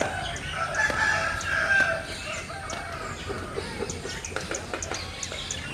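Birds calling: one long held call starting about half a second in and lasting over a second, then a run of quick high chirps from small birds.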